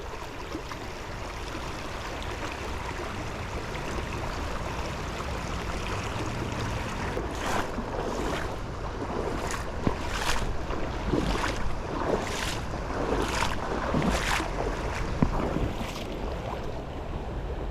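Shallow river water rushing steadily over rocks, with a run of about ten brief sharp sounds in the middle stretch.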